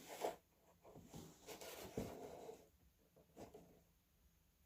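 Faint, intermittent rustling and light tapping of a cardboard box being handled and turned over.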